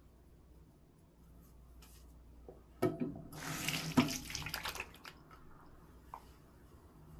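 Water running briefly from a tap for about a second and a half, after a sharp click, with a knock partway through.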